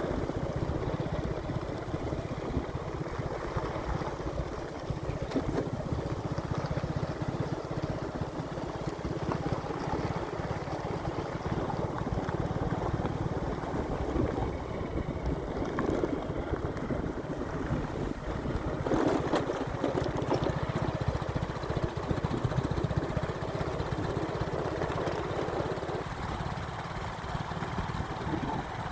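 A motorcycle running steadily while on the move, its low engine rumble mixed with a rushing noise.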